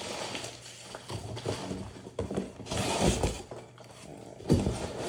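Packing material and ceiling-fan parts being handled in a cardboard box: irregular rustling and light knocks, with a louder rustle about three seconds in and a low thump about four and a half seconds in.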